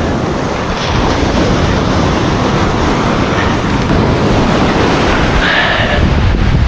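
Surf breaking on a beach with wind buffeting the microphone: a loud, steady rush of noise.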